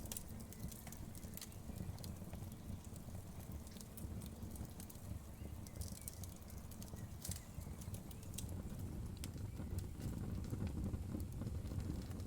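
Wood fire burning in a fireplace: a steady low rumble of flames with scattered crackles and pops of the wood.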